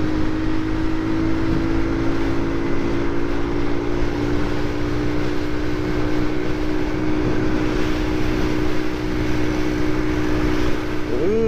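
Motorcycle engine running at a steady road speed, a constant drone, under wind rushing over the action camera's microphone.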